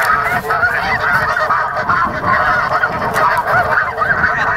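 Snow geese calling, a dense chorus of many overlapping high honks without a break.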